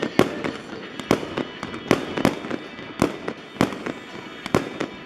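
A fireworks display: an irregular string of sharp bangs, two or three a second, with music playing underneath.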